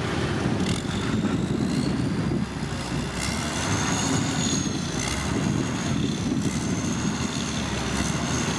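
Motor grader's heavy diesel engine working under load: a steady low rumble with a high whine above it that wavers up and down in pitch.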